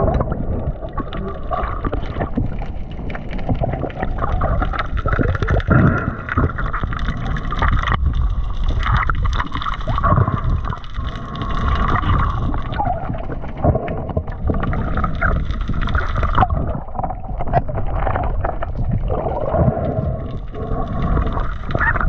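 Choppy sea water sloshing and gurgling close to the microphone, with irregular knocks and splashes.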